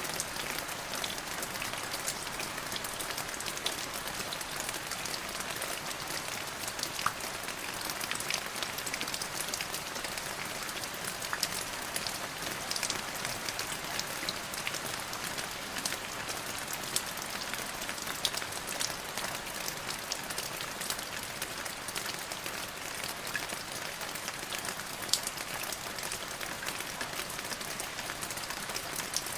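Steady rain falling on a surface, a constant hiss with many individual drops pattering sharply throughout.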